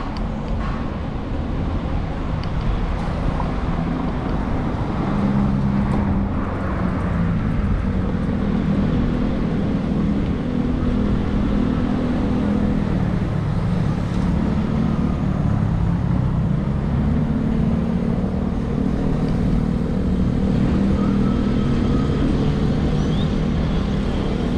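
Street traffic heard from a bicycle: a motor vehicle's engine runs close by over steady road noise, its pitch sinking about halfway through and then climbing again.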